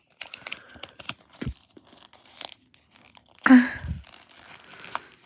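Sheet of printer paper rustling and crinkling as it is folded and creased by hand, with scattered small clicks. A short vocal sound breaks in about halfway through.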